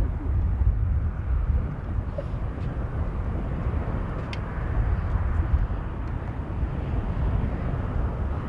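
Airbus A380-861 on landing approach, its four Engine Alliance GP7200 turbofans giving a steady low rumble that swells slightly in the second half. A single short click about four seconds in.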